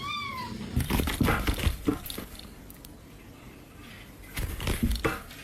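A cat's meow trailing off at the very start, then two spells of knocking and scuffling, the first about a second in and the second near the end.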